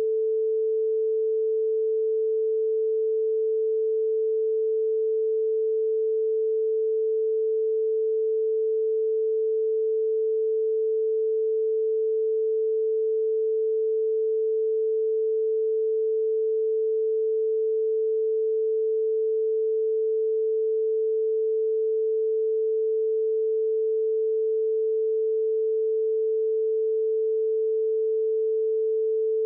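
A single steady, unchanging pure electronic tone, like a test tone, held at one middle pitch without a break.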